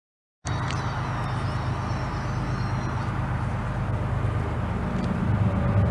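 Steady low rumble of a diesel train, starting abruptly about half a second in, with faint high thin tones over it for the first few seconds.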